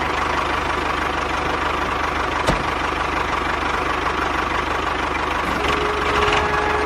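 A small motor running steadily with a fast, even rattle, and one sharp click about two and a half seconds in. A held musical note comes in near the end.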